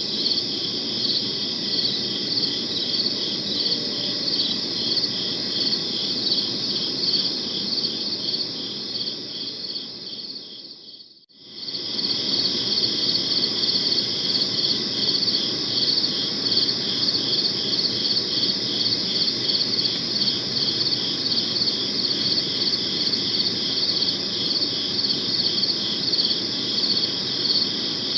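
Crickets chirping in a steady, finely pulsing chorus. It fades out about eleven seconds in and comes back within a second or so.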